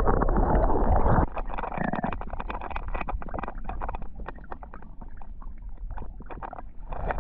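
A loud low rumble for about the first second, then river water running with many small irregular splashes and trickles.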